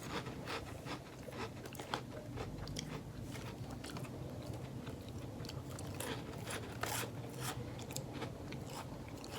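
A person biting and chewing a crunchy cracker: many small, irregular crunches.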